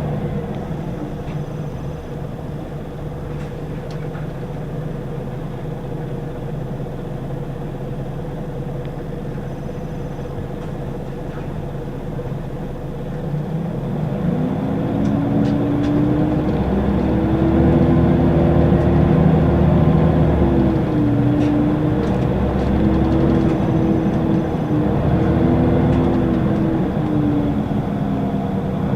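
Scania L94UB bus engine heard from inside the cabin, running steadily at low revs for about half the time, then pulling away. The engine note grows louder and rises in pitch, dropping back in steps several times as the ZF automatic gearbox shifts up.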